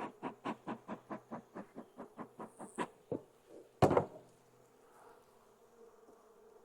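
Bee smoker bellows pumped quickly, about five short puffs a second for three seconds. A single louder knock follows near four seconds in.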